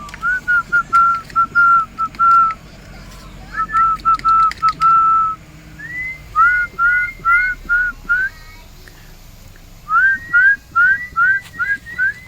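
A run of short whistled notes, each flicking upward in pitch, in three bursts of about six to eight notes with short pauses between.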